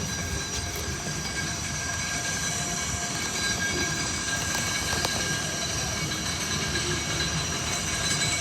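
Mount Washington Cog Railway locomotive No. 2 Ammonoosuc moving slowly as it arrives: a steady low rumble of running gear with thin, high, steady squealing tones over it.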